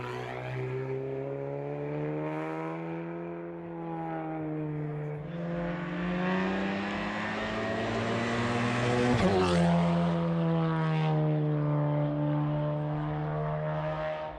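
Hill-climb race car engine under hard acceleration, its pitch climbing and dropping as it shifts up through the gears. It grows louder as it comes past, with a sharp dip in pitch as it goes by about nine seconds in.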